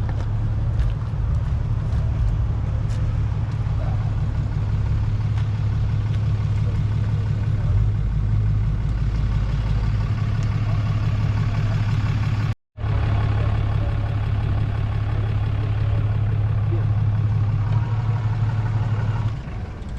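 Car engine idling nearby with a steady low hum and an even pulsing beat. The sound drops out for a split second about two-thirds through.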